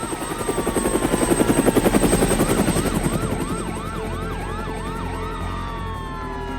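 Cartoon sound effects: a siren wailing in quick repeated rises and falls, about two or three a second. Under it a rapid chopping pulse swells over the first three seconds and then fades.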